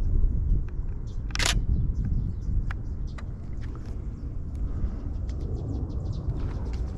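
Camera shutter clicking several times over a steady low rumble, with one louder, sharper click about a second and a half in.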